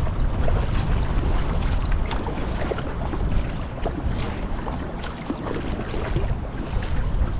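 Kayak paddle dipping and splashing in the water, with scattered drips and small splashes, under steady wind rumble on the microphone.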